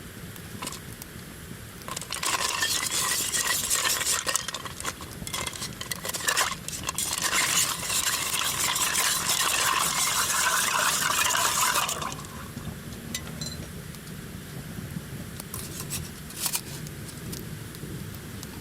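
A bar spoon stirring ice in a mixing glass: a fast, dense clinking rattle that lasts about ten seconds and then stops, followed by a few single clinks.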